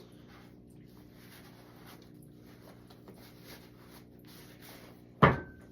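Faint scratchy rubbing and handling sounds over a low steady hum, then one sharp clack about five seconds in.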